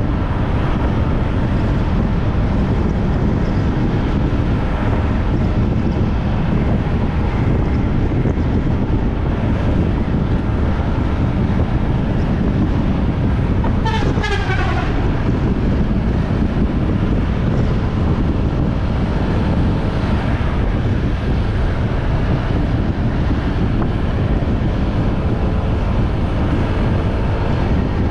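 Steady wind and road noise of a motorbike ride, loud and low. About halfway through, a short vehicle horn toot slides slightly down in pitch.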